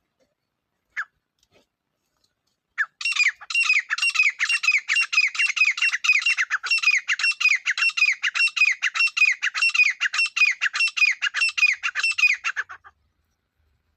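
Grey partridge calling: one short harsh note, then a rapid run of rasping, downward-sliding notes at about four a second that lasts about ten seconds and stops abruptly.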